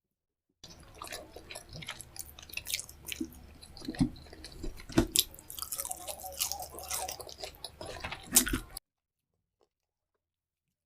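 A person chewing and biting food close to the microphone, with many sharp wet clicks and crunches, the loudest about four, five and eight seconds in. The sound cuts off abruptly a couple of seconds before the end.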